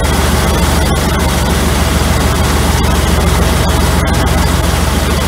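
Engine on an Edelbrock Performer 600 CFM four-barrel carburetor idling steadily, a low even pulse under a steady hiss, while the driver's side idle mixture screw is turned in a little to lean the idle mixture.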